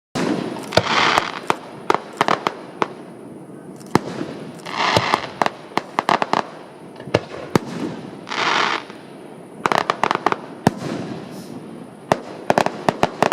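Fireworks display going off: a string of sharp bangs, some in quick runs of several shots, with three brief hissing bursts about one, five and eight and a half seconds in.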